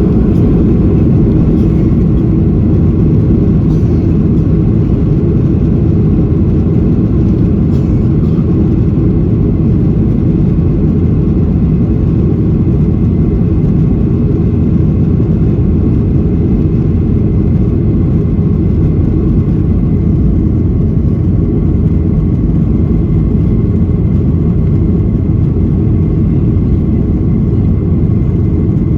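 Steady, loud roar of a Boeing 737-800's CFM56-7B engines and airflow heard inside the passenger cabin, with a couple of faint clicks in the first few seconds.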